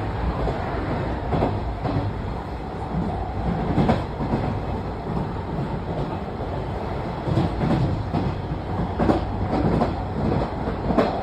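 London Underground Jubilee line train running, heard from inside the carriage: a steady rumble with irregular knocks and clatter from the wheels on the track.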